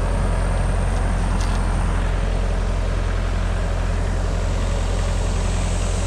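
Tractor diesel engine idling steadily, a deep even hum that does not change.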